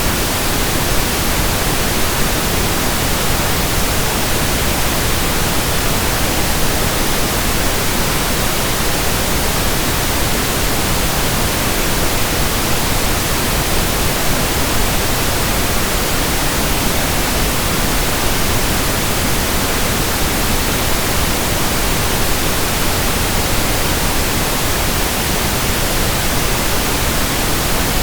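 Steady, unbroken pink noise: an even synthetic hiss spread across the whole range of pitch, with no changes or events.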